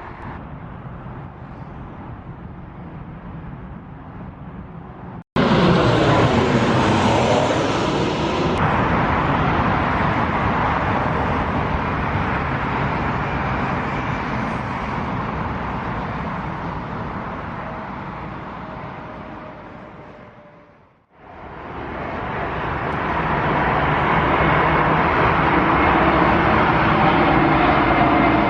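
Jet airliner engines passing close, loud at first with a falling sweep in pitch, then fading away; after a cut about 21 seconds in, another airliner's jet noise builds up again with a thin steady whine.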